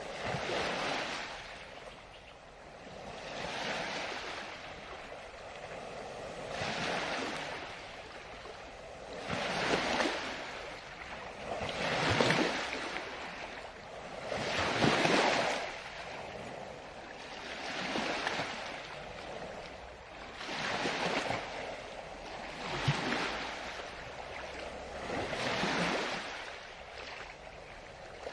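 Ocean waves breaking and washing in, about one every two to three seconds, each swelling and fading away; the largest come near the middle.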